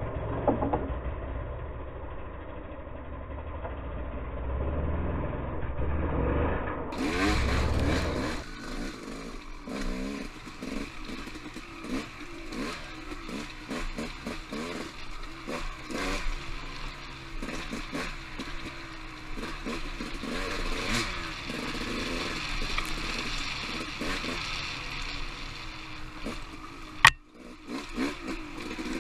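Dirt bike engine revving up and down as it is ridden over rocky singletrack, with frequent clattering knocks from the bike striking rocks and roots. A single loud sharp crack near the end.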